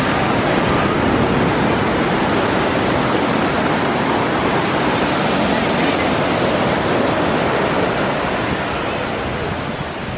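Loud, steady rushing noise that spreads evenly from low to high pitches and holds without a break.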